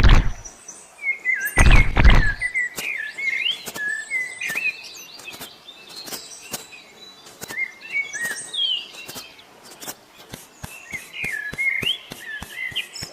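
Small birds chirping over and over, with two heavy thumps at the start and about two seconds in, the loudest sounds here, and a run of short sharp taps and clicks that come thicker near the end.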